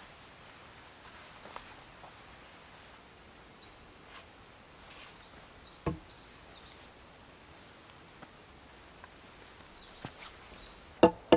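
Small birds chirping repeatedly in short, high, falling notes over quiet outdoor background, with one sharp knock about halfway through. At the very end a loud, regular series of sharp knocks begins.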